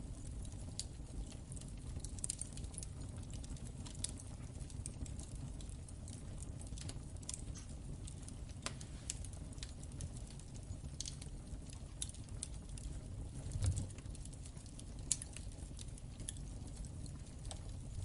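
Wood fire in a fireplace crackling: a steady low rumble of flames with irregular sharp pops and snaps, and a louder flare of crackling about three-quarters of the way through.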